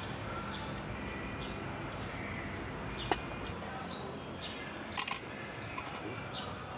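Small metal parts clinking against metal while a diesel injection pump is worked on by hand: one light click about three seconds in, then a short metallic rattle about five seconds in.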